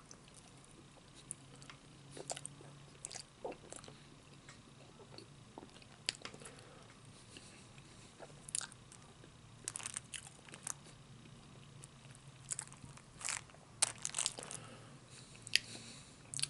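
A man chewing a mouthful of barbecue-sauced boneless chicken wing: quiet, irregular wet smacks and clicks of the mouth, a few louder than the rest.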